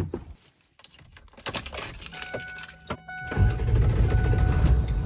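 Keys jangling and a steady electronic chime inside a pickup truck, then about three and a half seconds in the truck's diesel engine starts and keeps running with a low rumble.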